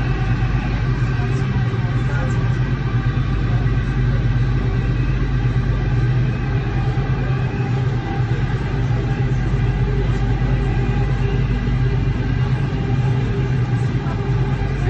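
Marmaray electric commuter train running through its tunnel: a steady low rumble with several faint steady whining tones over it.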